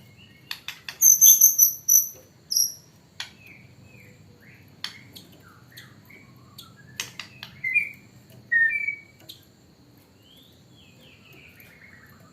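White-rumped shama singing, its song filled with mimicked calls of the blue-crowned hanging parrot. A quick run of loud, sharp high chirps comes about a second in, followed by softer whistled notes and falling slurs, with sharp clicks scattered throughout.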